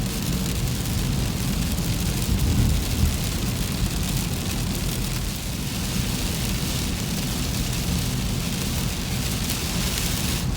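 Steady road noise inside a moving car on a wet highway: a low rumble with the hiss of tyres and rain on the car.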